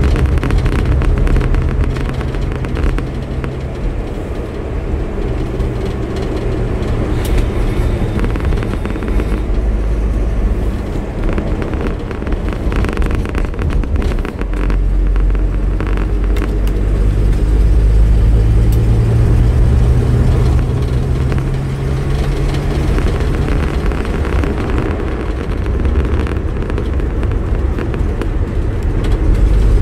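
Vauxhall PC Cresta's straight-six engine and road noise heard from inside the cabin while driving. The engine note shifts up and down with speed, easing off about halfway through and picking up again after.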